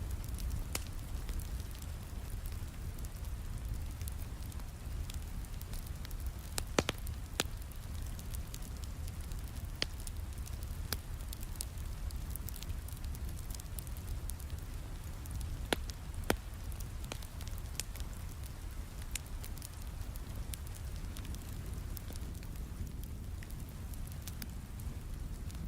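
Fireplace crackling, with scattered sharp pops, over steady rain and a deep low rumble.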